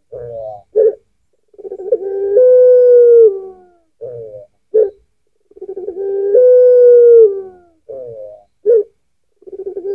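Puter pelung dove, a domestic ringneck dove bred for a long, deep coo, calling repeatedly. Each phrase opens with a few short falling notes and a brief sharp note, then a long drawn-out coo that steps up in pitch and falls away at the end. The phrase repeats about every four seconds, twice fully and a third time starting near the end.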